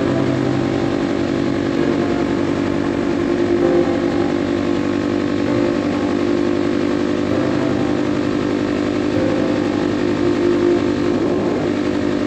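Kawasaki KLX 300's single-cylinder four-stroke engine running at a steady highway cruise, its pitch holding nearly constant.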